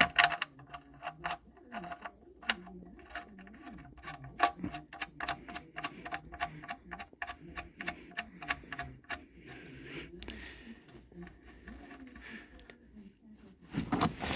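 Hand socket ratchet clicking in quick back-strokes, working at the oil drain plug.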